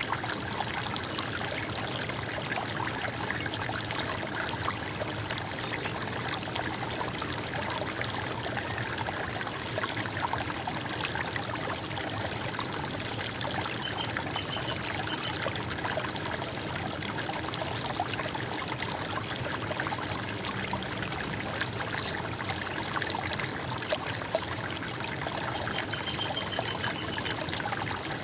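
A stream running steadily, trickling and splashing. A bird gives a brief high trill about halfway through and a longer one near the end.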